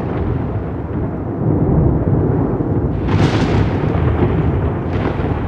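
Rolling thunder: a continuous deep rumble, with a sharper crackling peal about three seconds in and a smaller one near the end.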